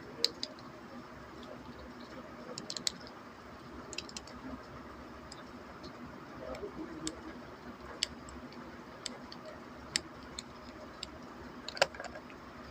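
Scattered light clicks and taps of small plastic pieces being handled, irregular and a second or so apart, over a steady low hiss; the sharpest click comes near the end.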